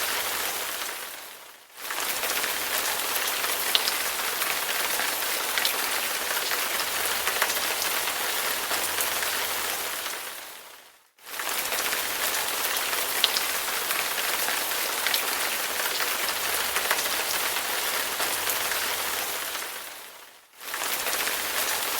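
Steady rain on a surface, an even hiss with scattered sharp drop ticks. Three times it fades away to near silence and comes straight back: about two seconds in, halfway through and near the end.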